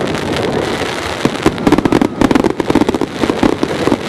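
Fireworks going off in a dense, continuous barrage of rapid cracks and bangs.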